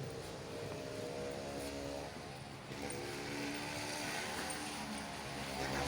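A motor vehicle's engine running steadily, its hum shifting slightly in pitch.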